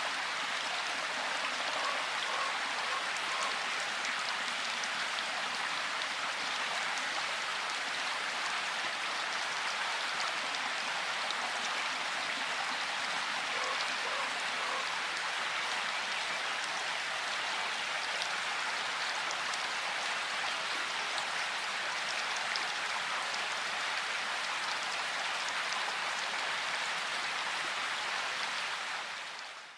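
Steady rain shower: a dense hiss of raindrops with fine scattered patters, fading out near the end.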